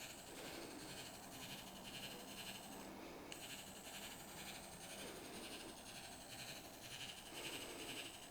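Faint nature-sounds ambience: a steady chorus of high, rhythmic chirping.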